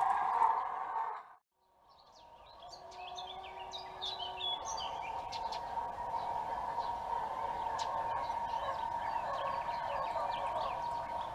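Birds chirping outdoors over a steady hum. A louder sound ends abruptly about a second in, followed by a brief silence before the birdsong and hum fade back in.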